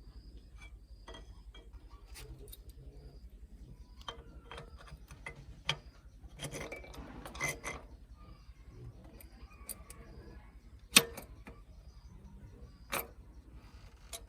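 Scattered clicks and knocks from hand work, with a scraping, rustling stretch in the middle and a sharp knock about eleven seconds in, then another near the end. Short faint high chirps repeat in the background.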